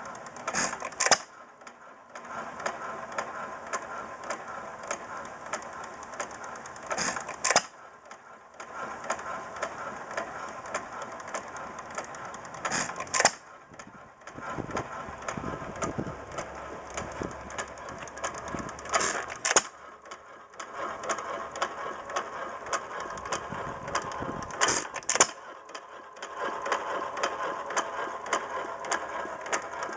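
Stover 2 hp Model K antique hit-and-miss gasoline engine running. It fires two loud bangs in quick succession about every six seconds, then coasts between firings with fast, even mechanical clicking, the regular hit-and-miss cycle of a governed engine running light.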